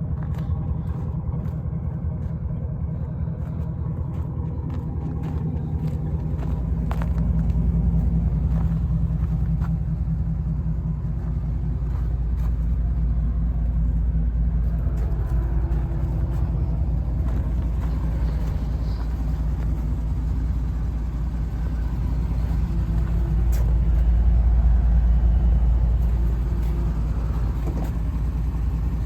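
2010 Chevy Silverado LTZ pickup's V8 engine running with a steady low rumble that swells louder a couple of times.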